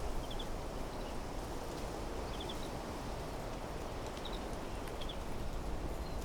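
Steady wind blowing through trees, with a small bird giving short high chirps in quick groups of two or three, four times.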